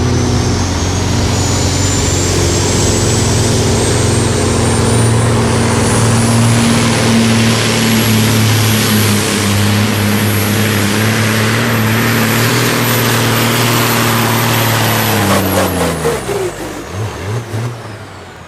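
Super Sport class pulling tractor's engine running flat out through a pull, with a high whine that climbs steadily in pitch and then holds. About fifteen seconds in, the throttle comes off and the engine winds down, falling in pitch and level at the end of the run.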